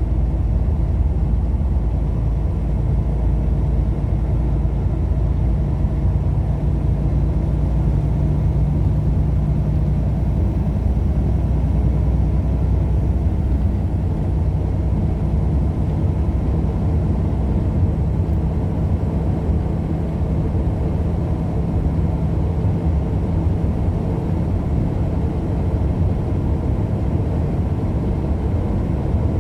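Car driving at a steady speed: a constant low rumble of engine and road noise, with a steady drone that holds its pitch.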